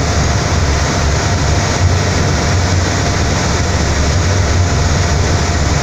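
Fast passenger ferry under way, heard on board: the engines' steady low drone with an even rushing noise over it.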